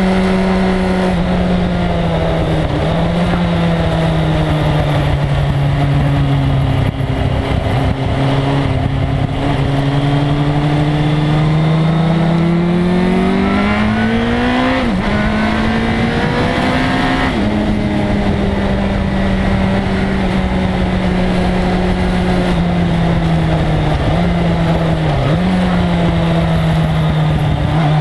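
1997 Suzuki GSX-R1100's inline-four engine under way at speed, its pitch sinking, then climbing hard with two quick drops as it shifts gear about halfway through, then holding steady before two more brief dips near the end. Constant wind rumble runs underneath.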